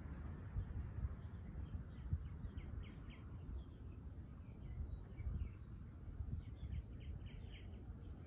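Backyard birds chirping in two short runs of quick, high notes, one about a third of the way in and another later on, over a low, steady rumble of background noise.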